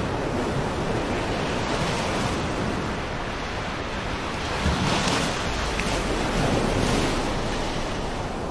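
Rushing floodwater: a loud, steady wash of water noise that swells slightly about five seconds in and again near seven seconds.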